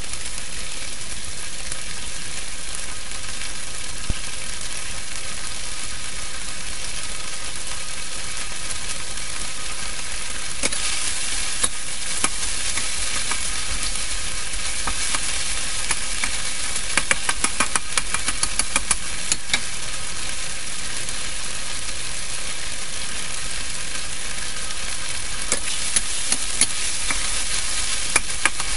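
Small shrimps sizzling in oil in a steel wok, a steady high hiss. From about ten seconds in, and again near the end, a metal spatula scrapes and clicks against the wok as the shrimps are stirred.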